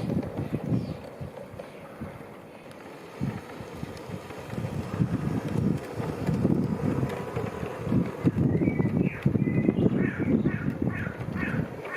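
Wind buffeting the microphone with an irregular low rumble, and over the last few seconds a bird calling in a quick series of about seven short, falling notes.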